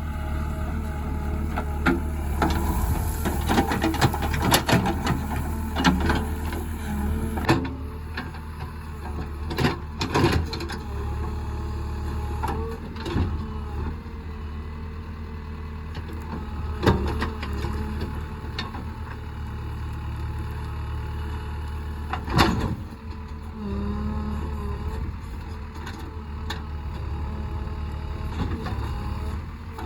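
JCB 3DX backhoe loader's diesel engine running steadily, with a cluster of sharp metallic clanks and knocks in the first several seconds and a few single loud knocks later on.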